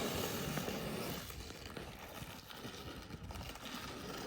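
A sled sliding down packed snow, a scraping hiss that is loudest in the first second and then fades as it moves away, with uneven crunching thuds underneath.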